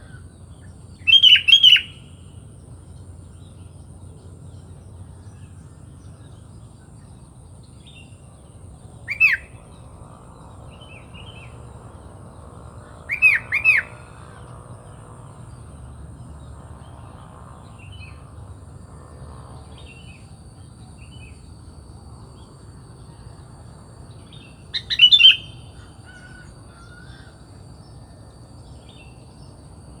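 Sooty-headed bulbul (kutilang) calling: four short, loud bursts of sharp, high notes, about a second in, around nine seconds, a quick pair around thirteen seconds and another burst near the end, with fainter chirps between.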